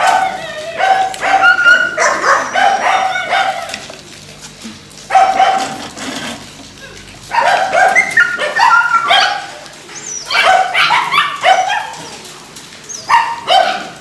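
Dogs barking in repeated bursts of short, sharp barks, with a couple of brief lulls between the bursts.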